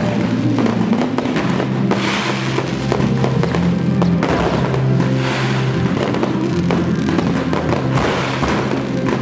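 Fireworks going off, with scattered bangs and three swelling showers of hissing crackle about two, five and eight seconds in, over loud music with steady bass notes.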